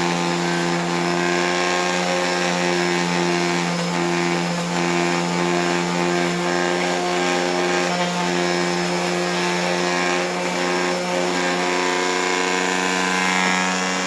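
An electric woodworking power tool runs steadily with a constant hum while it works a piece of wood.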